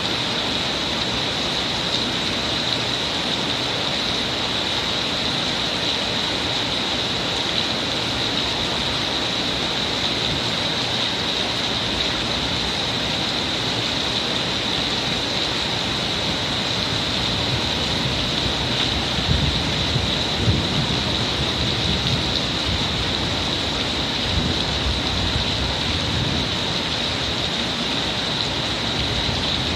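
Torrential cloudburst rain pouring down in a steady, dense hiss. Low rumbles rise and fall about two-thirds of the way through.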